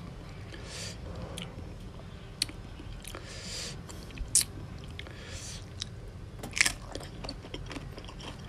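Close-miked chewing and wet mouth smacking of raw salmon salad, with a few short crunchy bites; the loudest come about four and six and a half seconds in.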